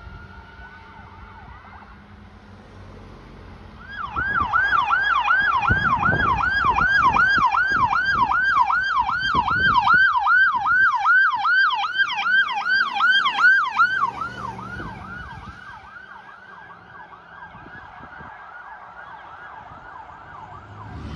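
Electronic siren of a responding fire apparatus on a fast yelp, about three rising-and-falling cycles a second, loud for about ten seconds as it goes by and then fainter as it moves away, with a low vehicle rumble under the loudest part.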